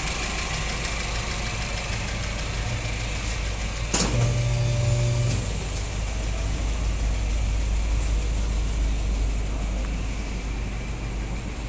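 Honda Fit 1.5-litre naturally aspirated four-cylinder idling through an aftermarket header, metal catalytic converter and low-volume oval single-can muffler with a deep, steady exhaust note. About four seconds in there is a sharp click and the exhaust note grows louder for a second or so, then settles back to idle.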